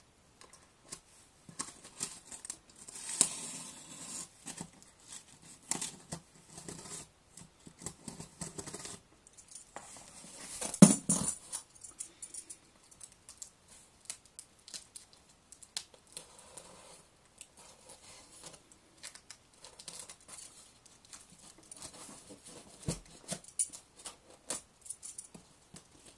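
A taped parcel being opened by hand: packing tape tearing and cardboard and packaging being handled, with irregular scrapes, rustles and small knocks. The loudest burst comes about eleven seconds in.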